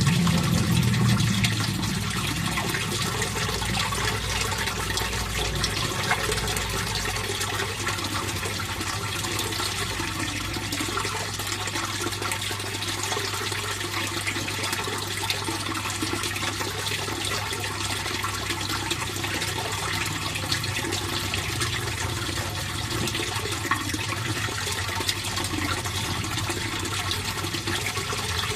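Water in a fish pond running and splashing steadily, with a low steady hum underneath. A louder low rumble fades out over the first couple of seconds.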